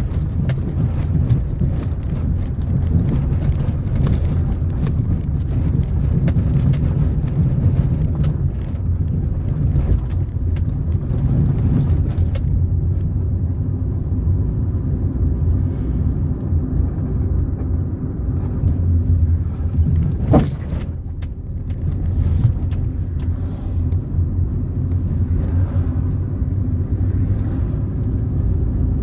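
A car being driven along the road: a steady low rumble of engine and tyres, with one short sharp knock or bump about two-thirds of the way through.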